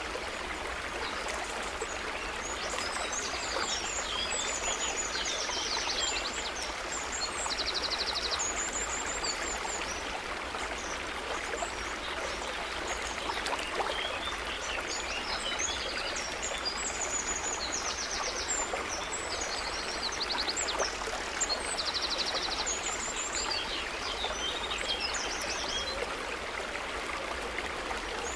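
A brook running steadily, with small birds singing over it: many short high chirps and a few fast, buzzy trills.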